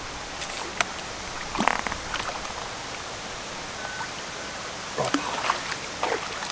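Steady rushing of river water, with a few short knocks and splash-like sounds scattered through it.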